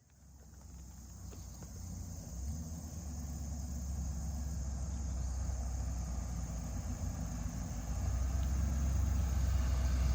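A car's engine running with a steady low rumble that grows louder as the vehicle draws closer.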